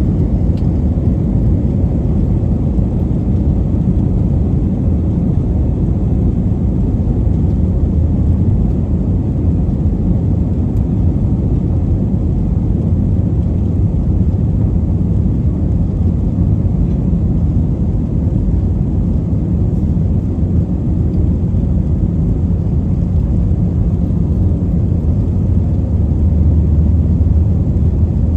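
Airbus A321 jet engines and airflow heard inside the passenger cabin: a steady low rumble that swells slightly near the end.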